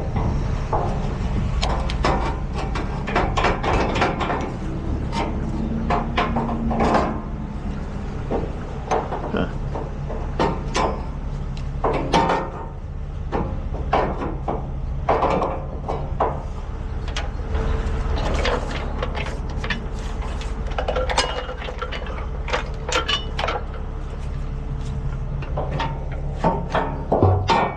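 A truck engine idling steadily beneath irregular metal clanks, knocks and rattles from the work of securing a towed bucket truck on a wrecker.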